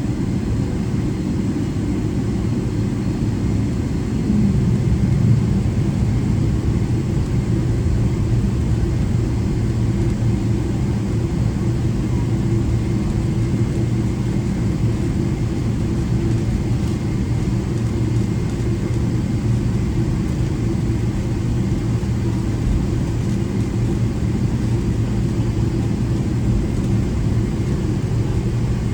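Steady low rumble of a Boeing 777-300ER taxiing, heard inside the cabin: its GE90-115B engines at idle together with the wheels rolling on the taxiway. It grows slightly louder about four seconds in.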